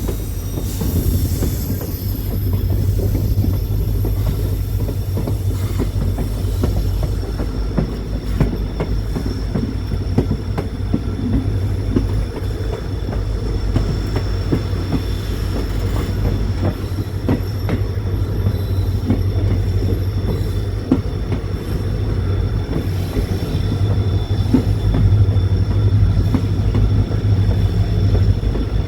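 Train running along the track: a steady rumble and rattle of the coaches with close, continuous wheel clatter. Over it sit thin, steady high-pitched squeal tones from the wheels on the rails.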